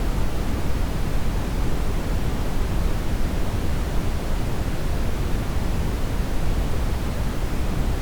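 Steady synthetic brown noise: an even, unchanging hiss weighted heavily toward the low end.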